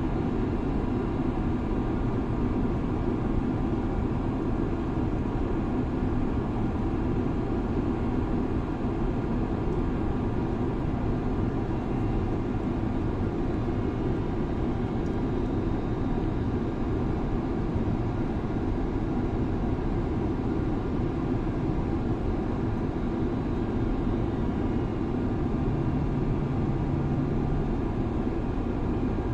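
Steady drone of an airliner in flight, heard from inside the cabin: jet engine and airflow noise, mostly low, with faint steady engine tones above it. A brief low hum joins near the end.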